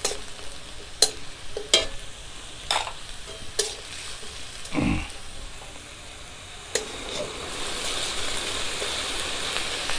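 Garlic paste frying with browned onion in hot oil in a metal kadai, stirred with a spatula: sharp scrapes and taps of the spatula against the pan over a sizzle that grows louder in the second half. A short falling whoosh sounds about five seconds in.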